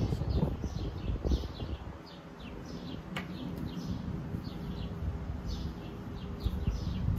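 Birds chirping, a steady run of short falling chirps, over low rumbling noise, with one sharp click about three seconds in.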